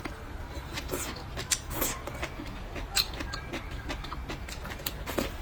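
Close-up chewing and lip-smacking of a person eating braised pig's trotters: irregular wet clicks and smacks, a few each second.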